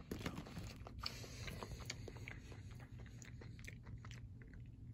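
Faint chewing of a mouthful of fried hushpuppy, with soft, irregular crunching clicks.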